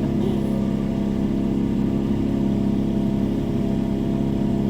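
Small canal cruiser's engine running steadily while under way.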